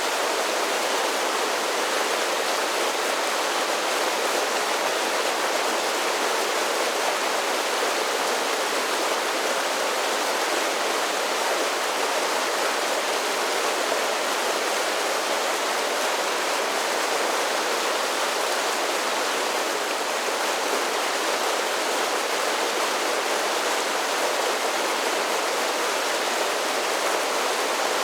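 Mountain creek spilling down a series of small falls: a steady rush of falling water, bright and hissy with little deep rumble, unchanging throughout.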